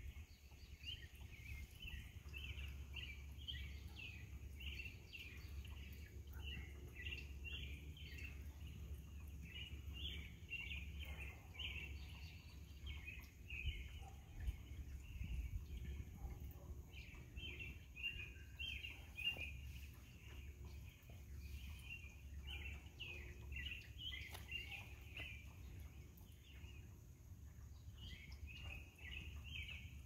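Birds chirping in the trees: a faint, fast, near-continuous run of short high chirps that pauses briefly around the middle and again near the end, over a steady low rumble.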